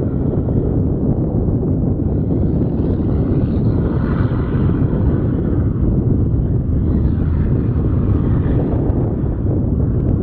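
Boeing 737-8 MAX's CFM LEAP-1B jet engines heard under heavy wind buffeting on the microphone. The engine sound swells twice, about two seconds in and again near seven seconds.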